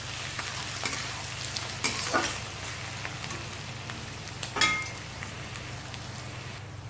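Sliced onions and whole spices sizzling steadily in hot oil in a kadhai, stirred with a spatula that scrapes and clinks against the pan a few times; the loudest clink, with a short metallic ring, comes about four and a half seconds in.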